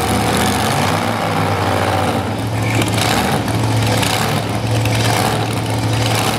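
Drag-racing car engines idling loudly and steadily, the note swelling slightly now and then.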